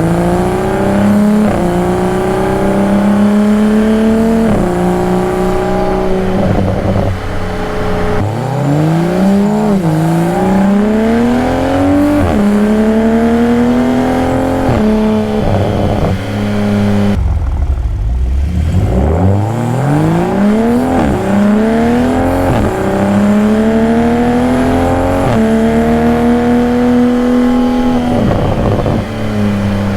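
2022 Toyota Supra's engine, exhaust and intake under hard acceleration: the pitch climbs and drops back with a gear change every two to four seconds. About halfway through the revs fall away low, then climb again through the gears.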